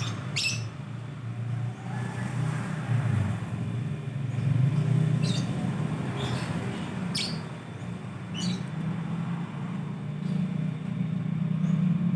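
A steady low motor rumble, like a vehicle engine running nearby, with about five short, sharp, shrill lovebird chirps scattered through it.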